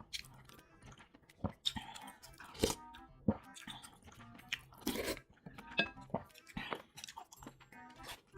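Close-miked eating sounds: chewing with irregular crisp crunches and wet mouth sounds, roughly a second apart. Soft music plays underneath.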